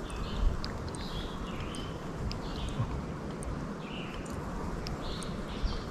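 Birds chirping, short calls coming every half second or so, over a steady low rumble.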